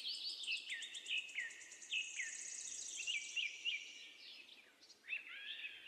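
Faint songbird chirping: a run of short, downward-sliding whistled notes over a fast, high trill, pausing about four seconds in before a few more chirps near the end.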